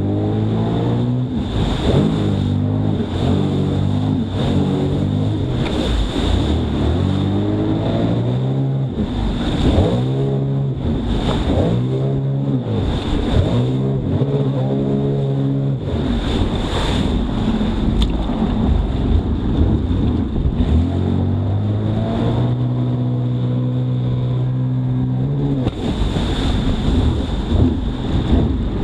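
Jet ski engine revving up and down again and again as it is thrown into turns and tricks, with rushes of spray and wind on the microphone.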